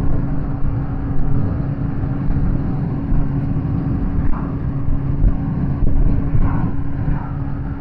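Suzuki GSX-S750's inline-four engine running at a steady cruise, a constant hum, with wind and road rush underneath.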